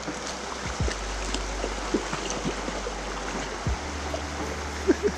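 Small creek running: a steady rush of flowing water, with a few soft low thumps.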